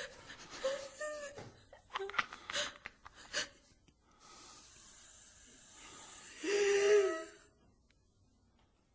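A person's breathy voice sounds: short gasps and breaths, then under a steady hiss a held wail about six and a half seconds in, after which it falls almost silent.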